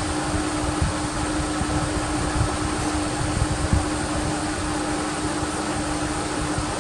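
A steady mechanical hum with a constant tone running under a noise, broken by irregular low rumbles.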